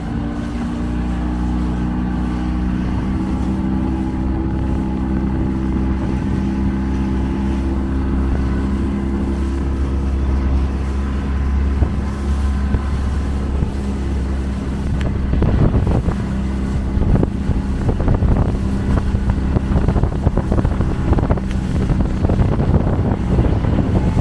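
A small motorboat's engine running steadily underway. About fifteen seconds in the sound turns rougher, with irregular knocks and rushing from wind and water against the boat.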